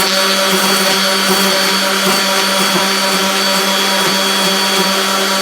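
Electric sander motor running steadily at full speed with a high whine, its 80-grit paper grinding against the wood of a guitar headstock being shaped.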